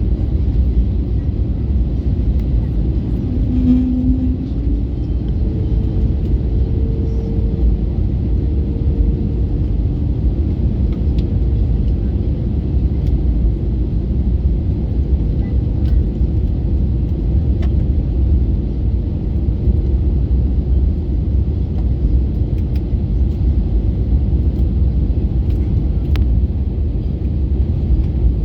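Steady low rumble of an Airbus A321neo's engines and cabin noise, heard from inside the passenger cabin, with a brief faint hum about four seconds in.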